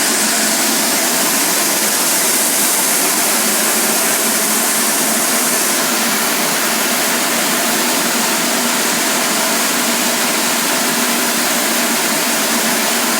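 Industrial microwave drying machine running: a loud, steady rushing noise with a faint steady hum underneath.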